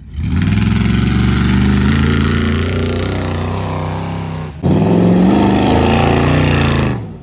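Dodge 5.2 L Magnum V8 running loud through an open, straight-piped exhaust that ends at an H-pipe. It revs twice, and each time the revs sink slowly before cutting off abruptly.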